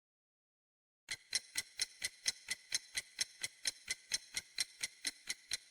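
Digital silence for about a second, then a clock-ticking sound effect with about four even, sharp ticks a second: a countdown while the viewer picks an answer.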